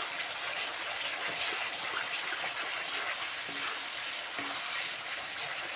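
Onion-tomato masala with dry spice powders sizzling steadily in oil in a kadai while a steel spoon stirs it, the spices being fried (bhuna) into the paste.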